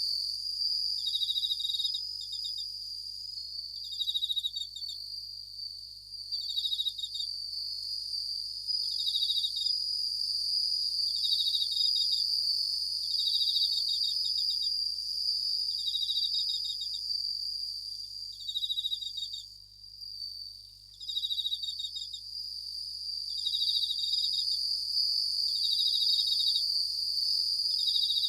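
Japanese bell crickets (suzumushi) chirping: short ringing pulsed trills repeat about every one and a half to two seconds over a steady, unbroken high-pitched insect trill.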